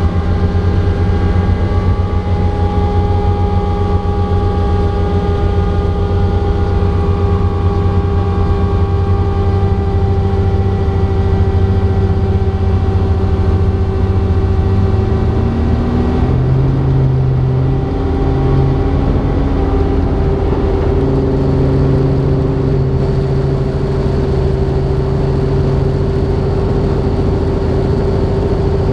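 Robinson R44 Raven II helicopter in flight: its six-cylinder piston engine and rotors run steadily with a low, pulsing drone and several steady tones. About halfway through, some of the tones slide upward and a new low tone joins in, with no change in overall loudness.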